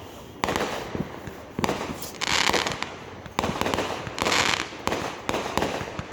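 Fireworks going off: a string of sharp bangs about a second apart, two of them followed by a brief hissing crackle.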